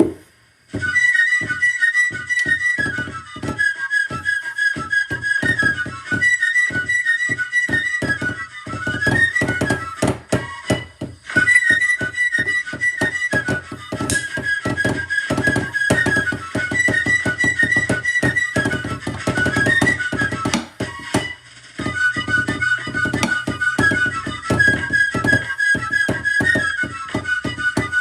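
Fife-and-drum music: a shrill fife melody with rapid rudimental drumming. The tune breaks off briefly about ten seconds in and again near twenty-one seconds, then picks up again.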